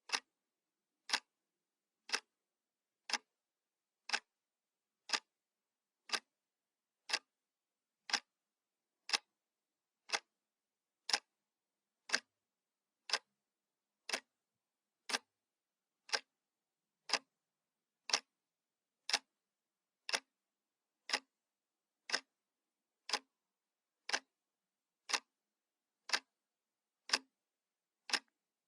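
Analog clock ticking, one sharp tick each second with silence between, dead regular.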